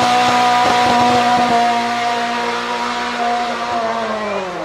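A high-performance car engine held at high revs as the car runs past on the hillclimb. The note stays steady, then drops in pitch and fades near the end as the car goes by.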